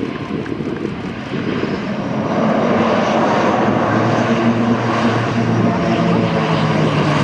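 ATR 72's twin turboprop engines and six-bladed propellers running up to power on the runway, as in reverse thrust. There is a steady low propeller drone, growing louder about two seconds in.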